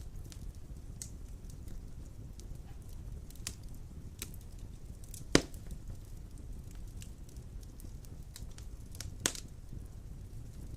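Wood fire of large logs burning in a stone fireplace: a steady low rumble of flame with scattered crackles and sharp pops, the loudest pop about five seconds in and another a little before the end.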